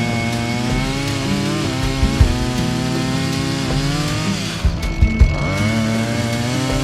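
Chainsaw running under load, its engine note wavering, dropping off about four and a half seconds in, then revving back up. A few sharp knocks come through around the dip.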